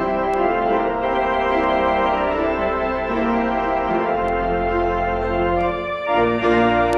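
Organ music: sustained chords over a low bass line, the harmony changing about four seconds in and again near the end after a brief dip.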